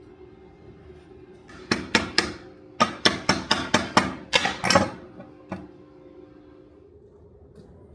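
Hand hammer striking steel on an anvil: about a dozen sharp, ringing blows, three and then a quicker run of about ten, with one lighter blow after a short pause.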